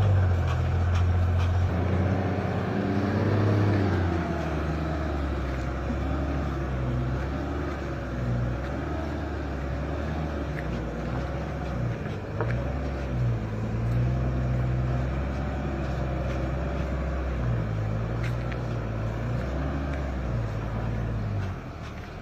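Overloaded Hino truck's diesel engine running under load, a steady low drone that shifts up and down in pitch.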